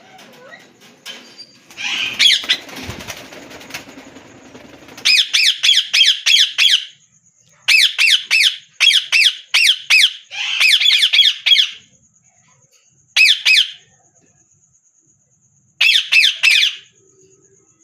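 Ring-necked parakeets giving harsh, rapid squawking calls in bursts of several calls each, separated by short pauses. A few seconds of rustling noise come first, about two seconds in.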